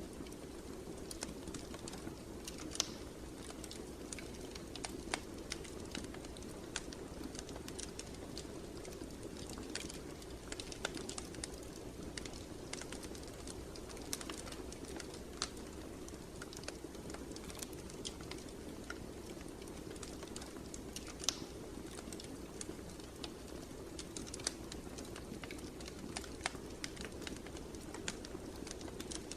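Wood fire burning in a fireplace: a steady low rumble of the flames with irregular crackles and snaps of the burning wood, a few pops louder than the rest.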